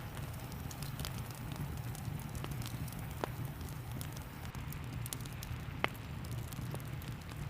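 Fireplace fire crackling, with scattered sharp pops, the loudest a little before six seconds in, over a steady hiss and low rumble of rain.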